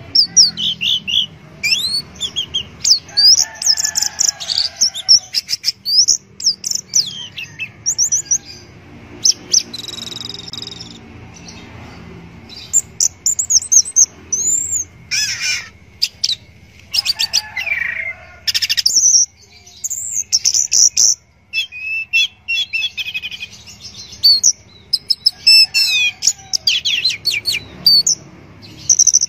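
Orange-headed thrush (anis merah) singing: a long run of rapid, varied whistled phrases and sharp chirps, in bursts with short pauses between them.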